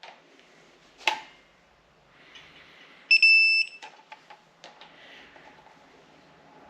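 Digital torque wrench giving one steady beep of about half a second, about three seconds in, signalling that a bolt has reached its set torque of 7.2 ft-lb. A few sharp clicks from the tool come before and after the beep.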